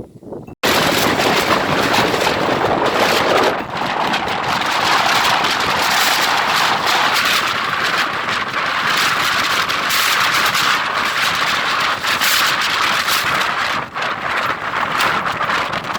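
Strong wind buffeting the microphone: a loud, continuous rushing noise that cuts in suddenly about half a second in and keeps surging unevenly.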